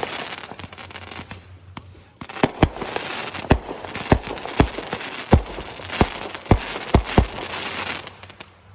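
Fireworks finale: aerial shells bursting in a fast volley, about ten sharp booms over a dense crackle. A crackle from the previous volley dies away at first, the new barrage starts about two seconds in, and it tails off near the end.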